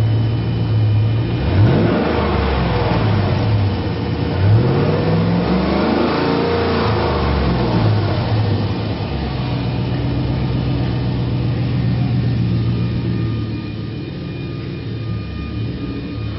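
2009 Chevrolet Silverado 2500's 6.0-litre V8 running at idle, revved up and back down twice in the first half, then settling back to a steady idle.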